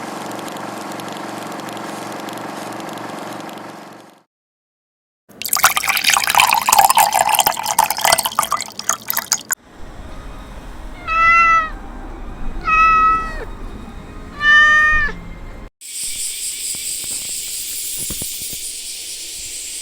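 A cat meowing three times, each call short and arching in pitch, about a second and a half apart. Before them comes a short stretch of steady music-like tones, a gap of silence, then several seconds of loud crackling noise; a steady high hiss follows the meows.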